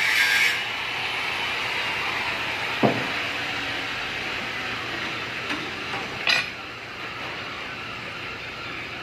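Workshop handling of tools and metal parts: a rasping noise cuts off about half a second in, then a single knock about three seconds in and a short metallic clink a little past six seconds, over a steady background hum.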